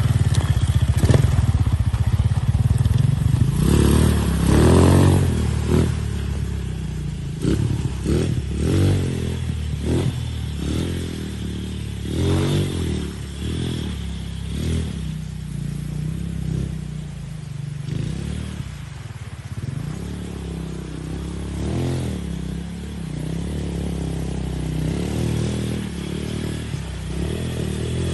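Motorcycle engine running, its revs rising and falling again and again, loudest in the first few seconds.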